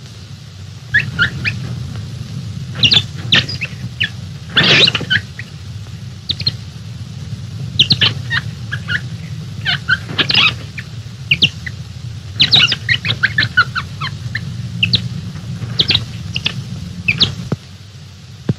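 Bird calls: a busy run of short, high chirps and squawks, starting about a second in and stopping near the end, over a low steady hum.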